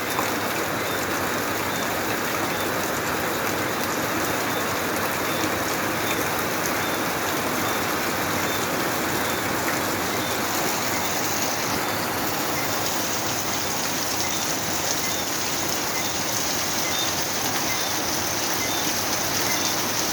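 Heavy rain coming down hard and steadily, with crickets chirping faintly in an even rhythm behind it.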